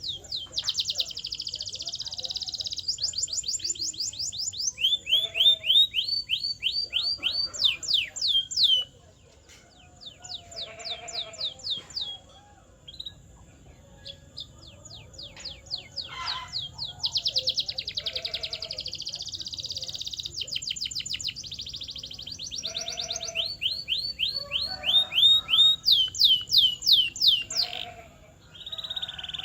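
Canary singing: long trills of rapidly repeated high notes that switch from one pattern to the next every few seconds, with a few short breaks.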